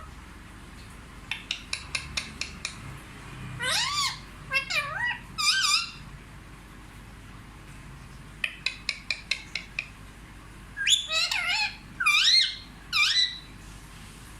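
Indian ringneck parakeet vocalizing: a quick run of about eight clicks, then several swooping calls that rise and fall in pitch. The same pattern comes again about halfway through.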